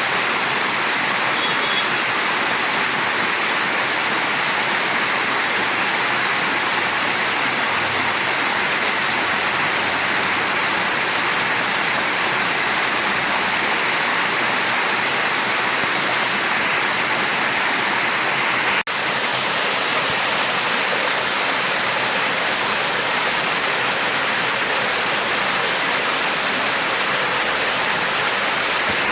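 Mountain stream rushing over rocks, a steady, even wash of water with one momentary dropout about two-thirds of the way through.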